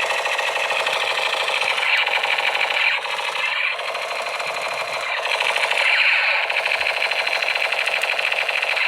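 Small motor and plastic gears of a battery-powered toy running, a steady rapid rattle, with two short swells where the pitch sweeps, about two and six seconds in.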